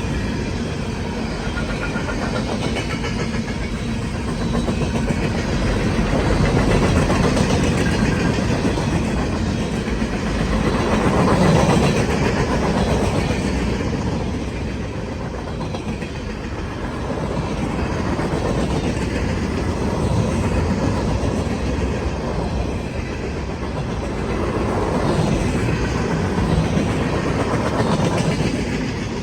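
Freight train cars rolling past on the rails: a continuous rumble and rattle of wheels that swells and eases every few seconds.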